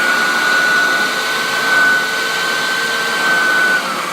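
Hoover Turbopower Junior U1100 upright vacuum cleaner's motor running with a steady whine over rushing air, then switched off near the end, its pitch falling as the motor winds down. It has little blow, which the owner expects a motor cleaning and servicing to improve.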